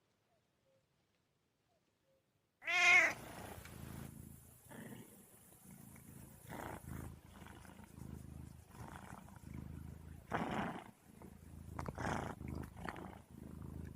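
Silence, then a cat meows loudly about three seconds in, followed by a string of quieter, shorter cat calls over a steady low hum, with a louder call near the end.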